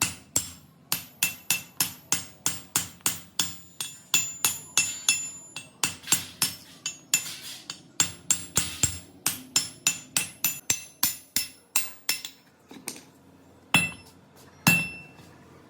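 Hammer striking metal in a quick, even rhythm of about three blows a second, each with a short metallic ring. The blows stop about twelve seconds in, and two separate, louder strikes follow near the end.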